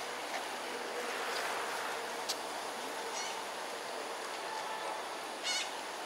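Two short trilled bird calls, one about three seconds in and a louder one near the end, over a steady background hum. A single sharp click comes about two seconds in.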